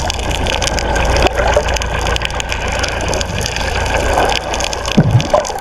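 Water splashing and gushing, with a steady low rumble underneath.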